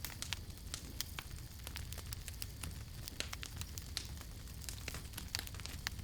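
Wood campfire crackling: many irregular sharp pops and snaps, several a second, over a steady low rumble of the burning fire.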